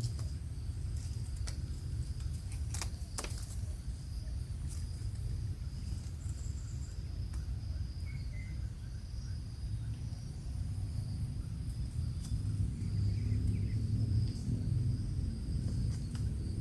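Outdoor ambience: a steady, high-pitched insect drone over a low, continuous rumble, with a few sharp clicks about three seconds in and brief faint chirps later on.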